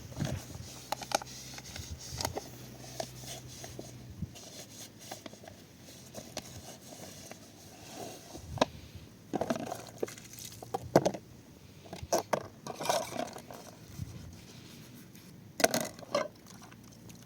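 Irregular scrapes, knocks and light clatter of objects being handled, loudest in clusters past the middle and again near the end. A low steady hum stops about four seconds in.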